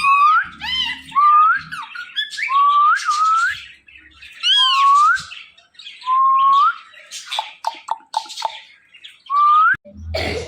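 Pet ringneck parrot whistling a series of short rising notes, about seven in all, between bursts of squawky chatter. A sharp squawk comes near the end.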